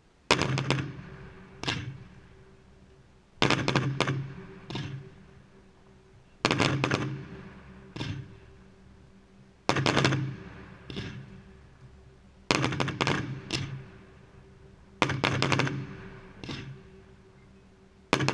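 Fireworks going off in volleys about every three seconds: each volley is a quick run of sharp bangs, followed a second or so later by a single lighter bang.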